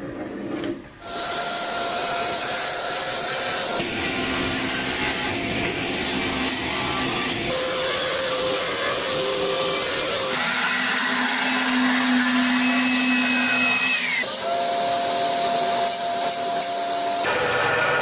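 An electric power tool running steadily with a whining hum, starting about a second in and changing pitch abruptly every few seconds; one whine drops in pitch as the tool slows down, about two-thirds of the way through.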